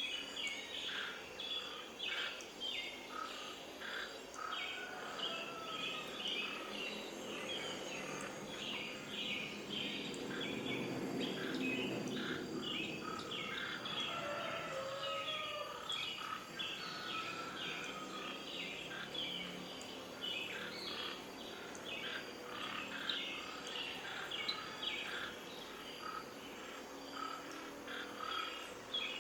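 Many birds chirping and calling rapidly in a dense chorus over a steady background hiss, with a low rushing noise that swells and fades near the middle.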